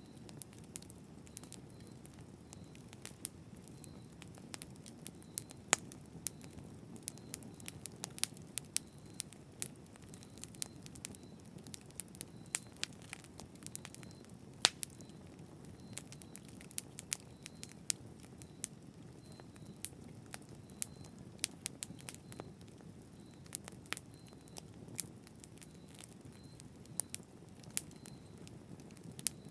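Campfire burning: a steady low rush of flame under irregular sharp crackles and pops of burning wood.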